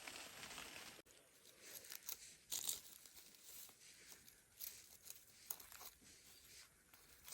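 Faint rustling and crinkling handling sounds, with a few short crisp scrapes or crunches; the loudest comes a little past two and a half seconds in.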